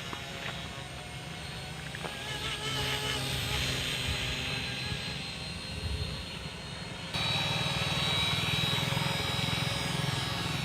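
A small helicopter's engine and rotor running steadily with a fast low chop; it gets suddenly louder about two-thirds of the way through.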